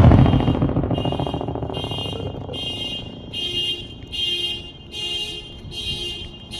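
The rumble of a rocket's ground-level explosion dies away. From about a second in, a car alarm sounds in repeated pitched beeps, a little more than one a second.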